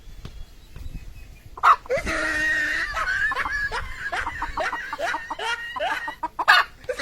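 A chicken calling loudly and agitatedly in a run of squawks and clucks starting about a second and a half in, with sharp knocks scattered through.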